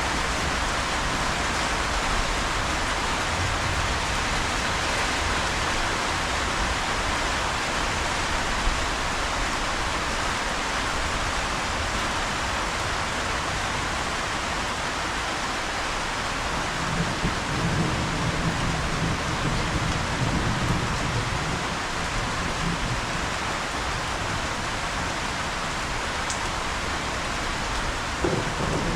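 Steady rain falling, an even hiss, with a low rumble that swells for a few seconds past the middle.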